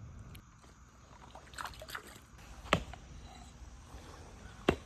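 Shallow water sloshing and trickling, with two sharp knocks, one about halfway through and one near the end.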